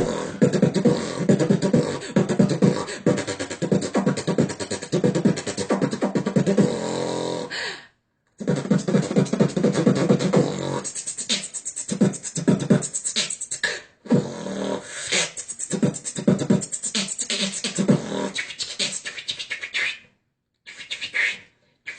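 Beatboxing: fast percussive mouth sounds imitating an electronic drum beat, broken by short pauses about 8, 14 and 20 seconds in.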